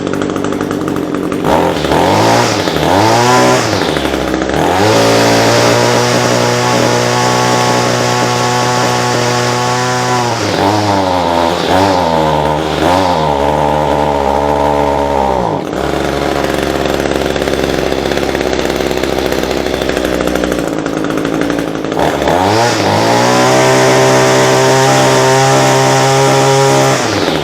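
Echo SRM-225 two-stroke string trimmer engine idling, then revved up and down several times and held at high throttle, dropped back to idle for a few seconds, then revved up and held high again. It runs without bogging now that the clogged fuel tank vent has been popped off.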